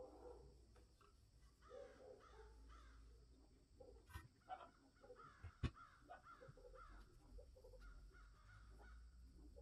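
Faint bird calls repeating in the background over near-silent room tone, with one sharp click a little past halfway.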